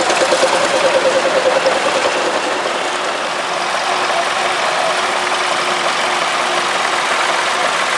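Vintage tractor engine running, with a fast, even pulsing beat for the first two seconds or so, then a steadier sound.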